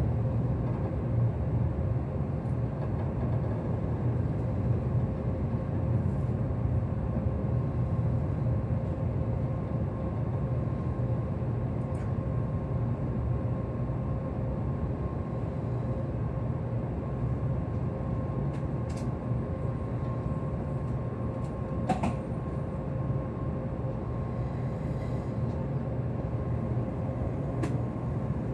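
Steady running noise inside a Tokaido Shinkansen car: a low, even rumble of the train with a faint constant hum and a few light clicks.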